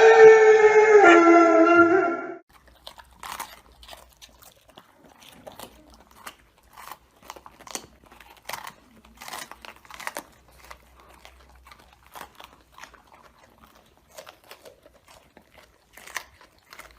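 A loud wavering, pitched sound that cuts off about two seconds in, then soft irregular crunches about once a second: an animal chewing.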